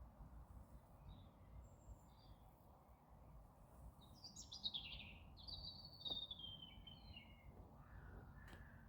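A small bird calls in a high, chirping phrase about halfway through. The phrase lasts a few seconds and falls in pitch as it goes, over a faint low outdoor rumble.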